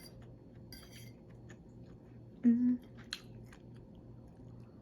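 A person chewing a mouthful of food close to the microphone, with scattered wet lip smacks and mouth clicks, and a short 'mm' from the voice about halfway through.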